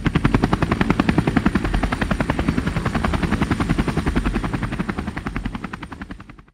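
Firefighting helicopter's rotor blades beating in a fast, even chop, fading away near the end and then cutting off abruptly.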